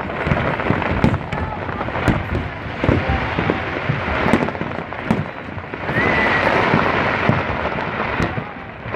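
Fireworks display: aerial shells booming and bursting in rapid, irregular succession over continuous crackling.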